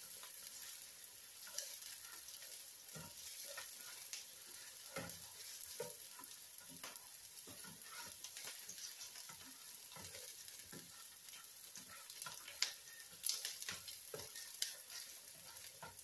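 Chopped onion sautéing in a skillet, softening: a faint, steady sizzle, with scattered light taps and scrapes of a utensil stirring it and a few sharper clicks near the end.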